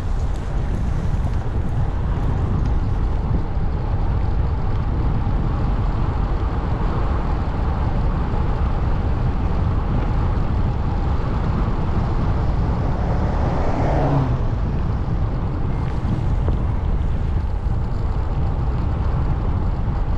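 Wind buffeting the microphone, a steady low rumbling noise, as on a moving bike. About fourteen seconds in, a short tone falls quickly in pitch.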